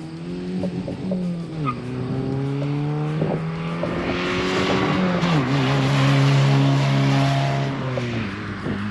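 2005 Hyundai Tiburon with its muffler deleted, accelerating past through the gears. The engine note rises, drops at an upshift about a second and a half in, climbs again, shifts once more about five seconds in, and is loudest as the car goes by, falling away near the end.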